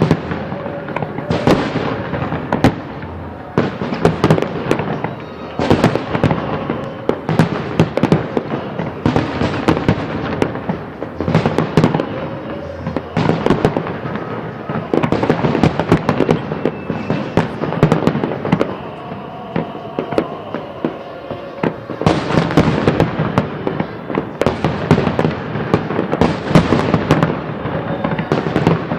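Fireworks display: a dense, continuous run of bangs and crackling bursts from aerial shells.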